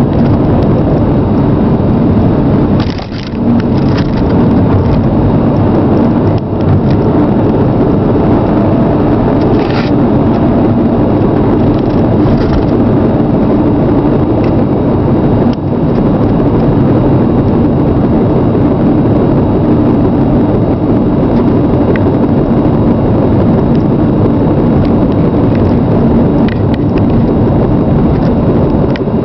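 Chrysler Sebring on the move, with loud, steady road and running noise.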